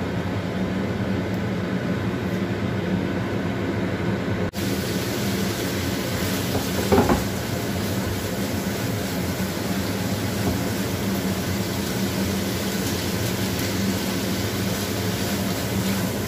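Steady hum and hiss of chili paste frying in a wok on a gas burner while it is stirred with a silicone spatula, with a short louder scrape about seven seconds in.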